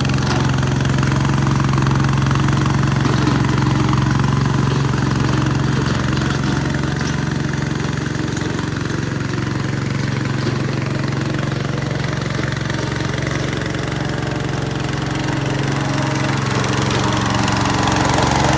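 Massey Ferguson MF 14 garden tractor engine running steadily, dipping a little in loudness midway and picking up again near the end.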